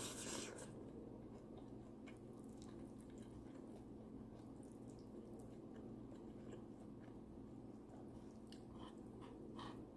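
Quiet close-miked eating: wet chewing and soft mouth sounds, with faint scattered clicks of fingers picking at a cooked fish. There is a louder wet mouth sound right at the start.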